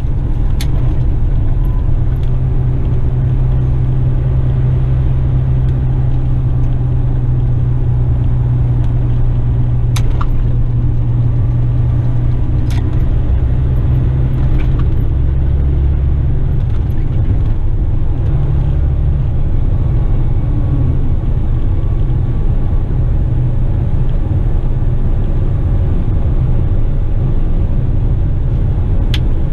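Western Star tipper truck driving on the road, heard from the cab: a steady low engine drone and road rumble. The engine note changes a little over halfway through, and a few faint clicks stand out.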